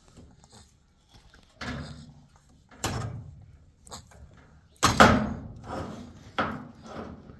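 A series of four knocks or thumps, a second or so apart, each dying away quickly; the loudest comes about five seconds in.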